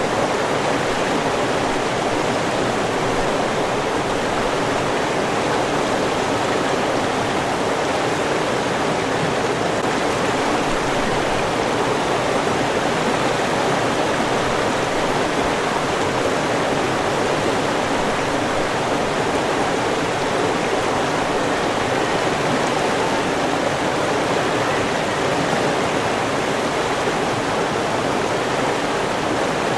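River water rushing and burbling over rocks in a steady, even flow.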